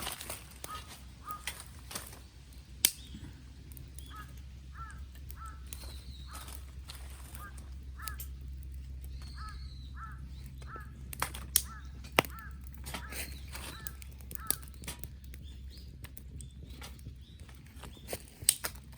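Crows cawing in runs of short, repeated calls, with a few sharp pops and cracks from a wood campfire, the loudest sounds, over a steady low hum.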